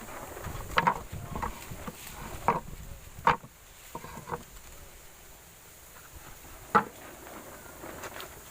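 Sonokeling rosewood flooring boards knocking against one another as they are handled: scattered sharp wooden knocks and clacks, four of them clearly louder than the rest.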